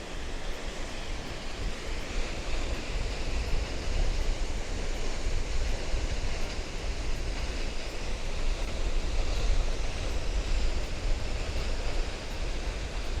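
Steady roar of a large waterfall running with heavy flow, with gusts of wind rumbling on the microphone.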